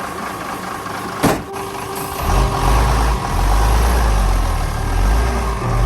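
A vehicle engine running steadily, a sharp click just over a second in, then deep bass in stepped notes comes in loud about two seconds in.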